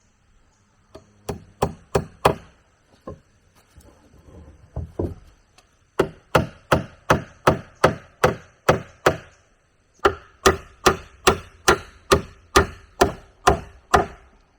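A tool striking wood with sharp, evenly paced blows, about two and a half a second, in two long runs of about ten strikes each after a few shorter, scattered ones.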